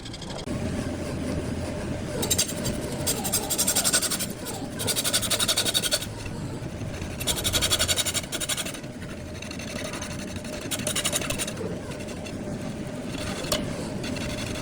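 Wood lathe running with a steady hum while a turning tool cuts into the spinning wood block, scraping in about four passes of a second or two each.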